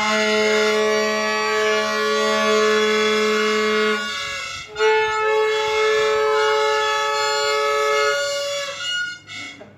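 Free-reed wind instrument playing two long sustained chords, several notes at once. The first chord lasts about four seconds; the second follows after a short break and dies away near the end.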